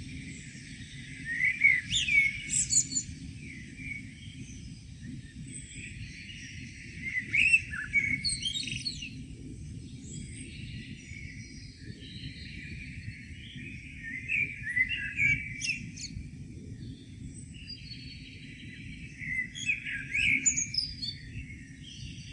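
Songbirds singing a dawn chorus: four louder song phrases of quick high chirps and trills come several seconds apart, with quieter twittering between them, over a low steady background rumble.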